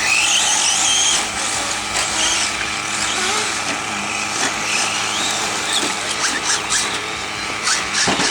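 Electric 4x4 RC racing trucks running on the track: a high-pitched motor and gear whine that rises and falls with the throttle over a steady hiss, with scattered light clicks.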